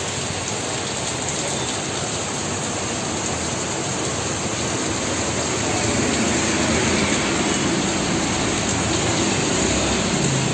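Heavy rain pouring down and splashing on the street and nearby vehicles, a steady rushing hiss. It grows a little louder and deeper about six seconds in.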